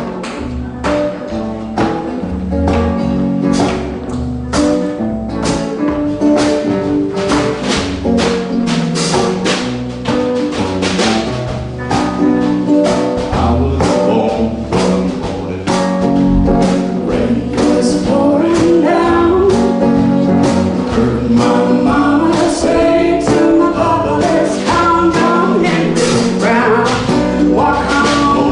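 A live acoustic duo playing a song: strummed acoustic guitar over a steady percussive beat of about two hits a second.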